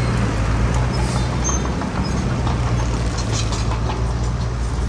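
Heavy diesel earthmoving machinery running steadily under a low drone, with a few light metallic rattles, about a second and a half and three seconds in.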